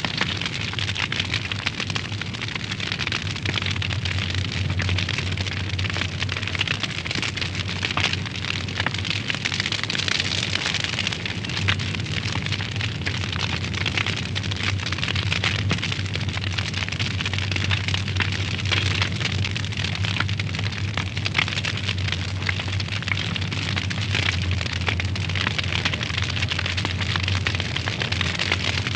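Wood fire burning in a fireplace: dense, continuous small crackles and pops over a steady hiss, with a low steady hum underneath.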